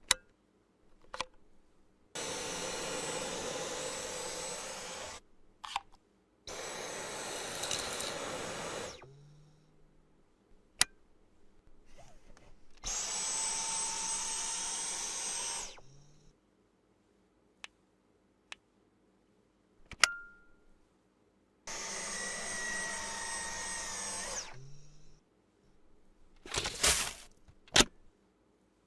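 Cordless stick vacuum cleaner switched on and run four times for about three seconds each, a steady rushing sound with a high whine, cutting off after each run. Sharp clicks and knocks come between the runs.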